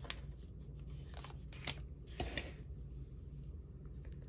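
Paper and plastic craft packaging being handled: a few short, soft crinkles and taps over a low steady room hum.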